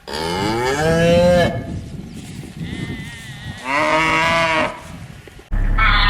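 A cow mooing: two long, drawn-out calls a couple of seconds apart. Near the end a steady hum cuts in abruptly.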